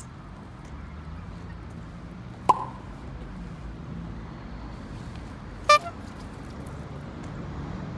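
A fishing lure plopping into the water twice, about two and a half seconds in and again near six seconds: two short, sharp splashes, each with a brief ring. A steady low rumble runs underneath.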